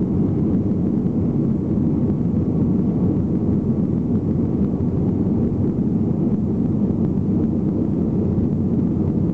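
Steady, low-pitched engine and air noise of an airliner in flight, heard from inside the cabin.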